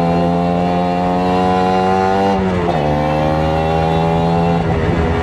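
Kawasaki Ninja RR 150's single-cylinder two-stroke engine running hard under way, its pitch climbing slowly. About two and a half seconds in the revs drop sharply and pick up again, as in a gear change, and near the end the note turns ragged.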